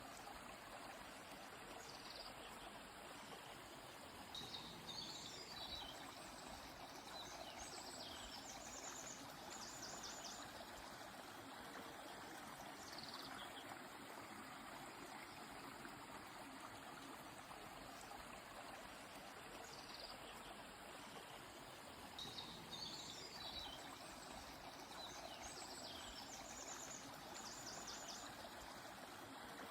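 A stream flowing steadily, with birds singing short, high chirping phrases over it: one spell of song a few seconds in and another much like it near the end.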